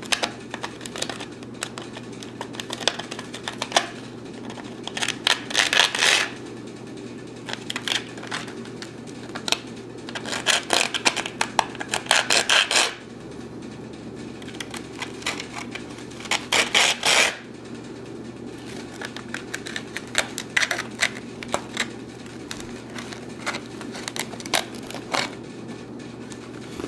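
Bursts of rapid scraping strokes on a painted metal fingerboard truck hanger, worked by hand to strip off its paint and shape it, with short pauses between the bursts.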